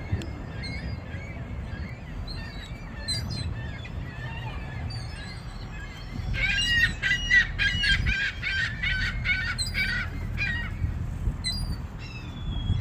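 Gulls calling: scattered short calls, then about six seconds in a loud run of rapid, repeated calls from several gulls lasting about four seconds before thinning out again.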